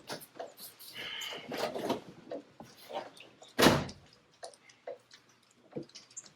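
A car door shutting with one solid thump about halfway through, amid small clicks and knocks of handling and a brief squeak about a second in.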